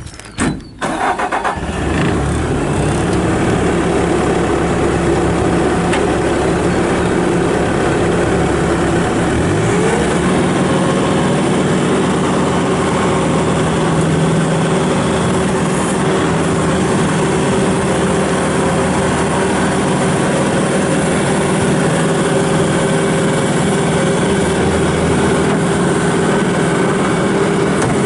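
Bobcat S740 skid steer loader's 74-hp turbo diesel engine starting within the first second or two, then running steadily. Its pitch rises a little about ten seconds in, then holds.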